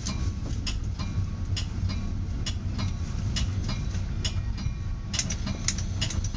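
Metra bi-level cab car rolling along the track, heard from inside the car: a steady low rumble with sharp clicks and rattles about once a second, coming faster near the end.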